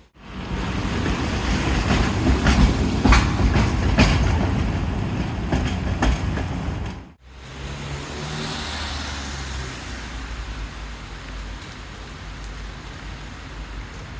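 Heavy rain on a city street with a vehicle passing over the wet road, loudest in the first half with scattered sharp clicks. The sound cuts off abruptly about seven seconds in, then resumes as steadier rain with a low traffic hum.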